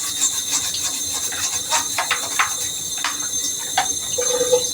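Tap water running steadily in a hiss while a vacuum cleaner head is washed under it, with a few light knocks.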